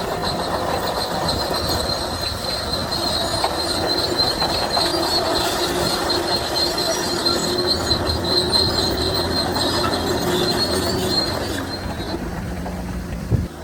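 Crawler bulldozer working, its engine rumbling with a steady high squeal of steel tracks that fades near the end. A sharp knock comes just before the end.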